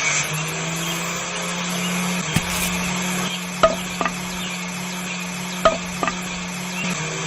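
A small electric motor hums steadily at one pitch, with a few light clicks of small parts being handled, two of them coming as quick pairs.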